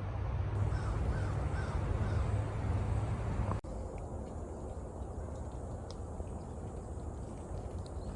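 A bird calling several times over a low rumble of wind on the microphone. About three and a half seconds in, this cuts to a quieter outdoor background with a few faint ticks.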